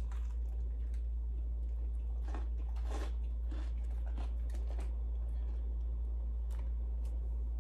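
Biting into and chewing a fried-chicken burger: short, irregular mouth and food sounds, thickest about two to four seconds in, over a steady low hum.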